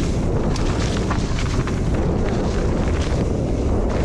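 Wind buffeting the microphone of a mountain bike's onboard camera as the bike rolls fast down a muddy trail, a loud steady rumble with scattered clicks and rattles from the bike.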